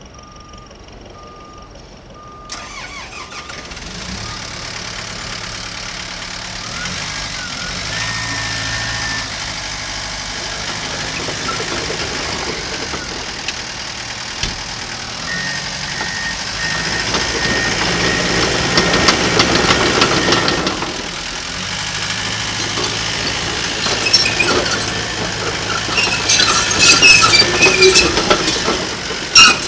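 Komatsu D37PX-21 crawler dozer's diesel engine being started: a series of short beeps, then the engine catches about two and a half seconds in and runs, its speed rising around the middle. Metallic clanking and squealing join it near the end.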